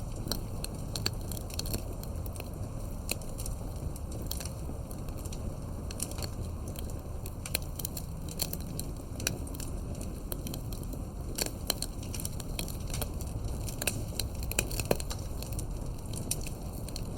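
Campfire burning with a steady low rumble and irregular crackling and popping of the burning wood; a few louder pops come about two-thirds of the way through and near the end.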